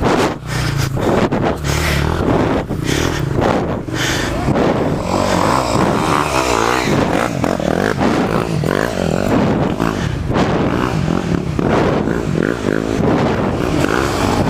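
Off-road trail motorcycle engines running and revving, the pitch rising and falling again and again.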